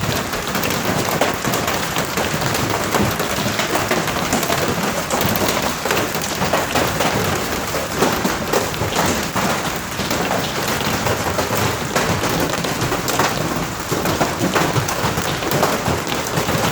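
Hailstorm: hailstones pelting down in a dense, unbroken clatter of countless small impacts.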